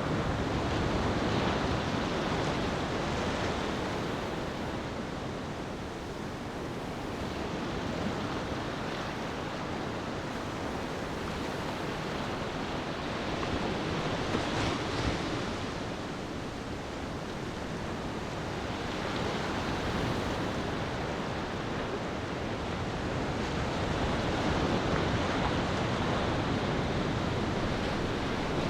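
Ocean waves washing onto a beach, a steady rush of surf that swells and fades every several seconds.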